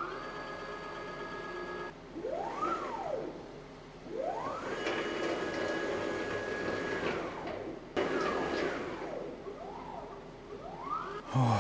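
Stepper motors of a DIY CNC router moving its gantry in a series of jog moves, not yet calibrated. Each move is a whine that rises in pitch as the motors speed up, sometimes holds steady, then falls as they slow. There are about six moves, the longest holding its pitch for about three seconds in the middle.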